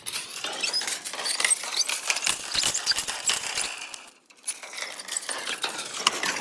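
Hand-operated water pump being worked, its metal handle and linkage clinking and squeaking with each stroke while it is pumped to bring up spring water; the pumping stops briefly about four seconds in.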